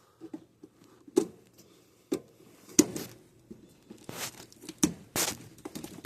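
Irregular sharp clicks and knocks with rustling, from hands working thick electrical wires and metal parts inside an air handler's electrical compartment.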